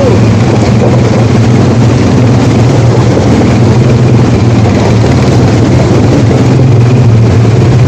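ATV engine running steadily, a loud constant low drone with a steady rushing hiss over it.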